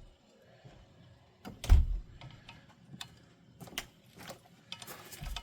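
Hand tools being handled during repair work: one heavy knock about two seconds in, then a scattering of sharp clicks and taps.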